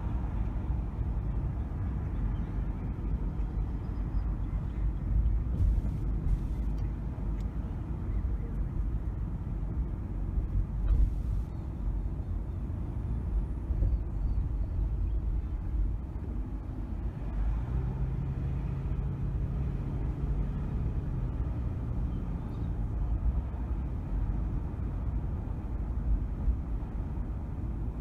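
A car driving, with a steady low rumble of engine and road noise. A faint low steady hum joins it for a few seconds past the middle.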